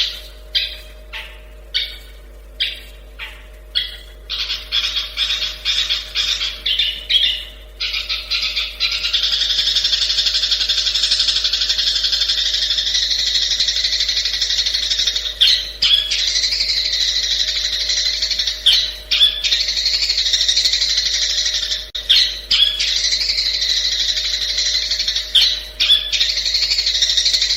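Long-tailed shrike (cendet) singing: harsh separate calls about twice a second that quicken into a rapid run, then, from about a third of the way in, a continuous fast chattering song broken every few seconds by loud sharp notes.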